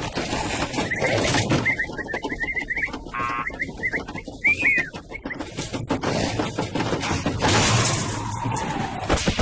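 Cartoon sound effects: a dense, busy clatter with a run of short bird-like chirps and tweets in the first half.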